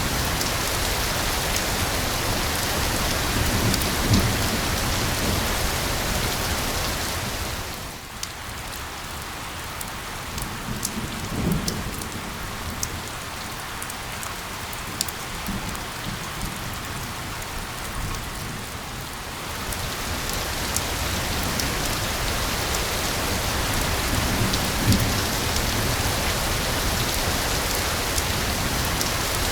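Steady heavy rain. About 8 seconds in it eases to a lighter patter with separate drops ticking, then builds back to full strength near 20 seconds. A few low rumbles of thunder come through.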